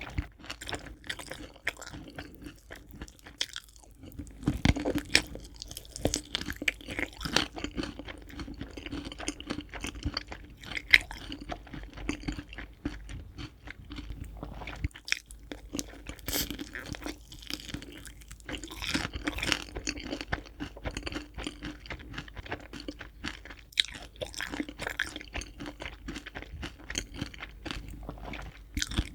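Close-miked chewing of crispy fried chicken: dense, irregular crunching of the fried coating, with a few louder bites standing out.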